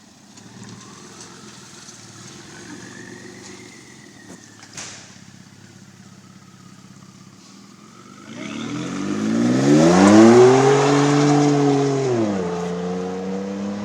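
Ford F-150 EcoBoost twin-turbo V6 through an aftermarket exhaust, idling low and steady, then taking off hard about eight seconds in. The exhaust note climbs steeply in pitch, holds near its loudest, then drops sharply about twelve seconds in at an upshift and settles into a steady pull.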